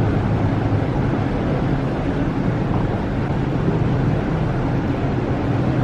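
Charter boat's engine running steadily under way, a low even hum over a rushing hiss of wind and water.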